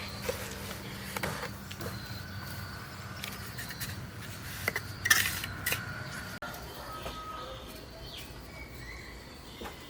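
Scattered knocks and clinks of objects being handled over a low steady hum, the loudest a few seconds past the middle. About two-thirds of the way in the sound cuts off abruptly to quieter outdoor ambience with a few faint bird chirps.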